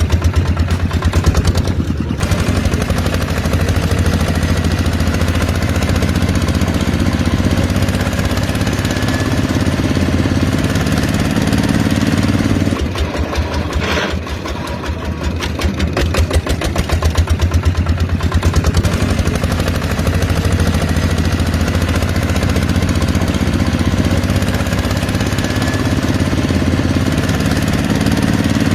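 Small engine running with a rapid, steady firing beat, its pitch creeping up slowly at times. There is a short dip in level about halfway through and a single click just after.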